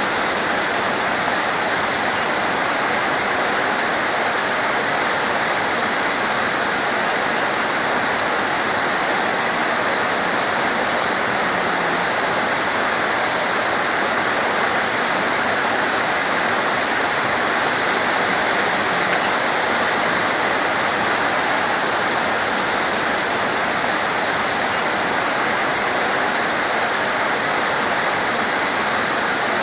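Heavy rain pouring steadily, a dense even hiss, with one faint tick about eight seconds in.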